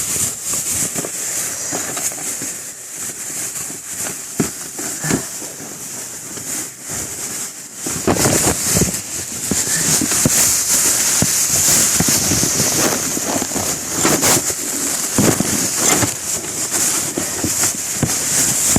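Wood fire crackling in a makeshift chimney stove: irregular sharp pops and snaps over a steady high hiss, growing louder and busier about halfway through.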